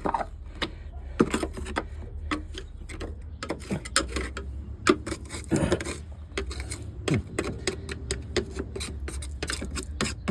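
Hands pulling and scraping at insulation and debris inside a truck cab's roof: irregular rustling, clicks and scrapes, over a steady low hum.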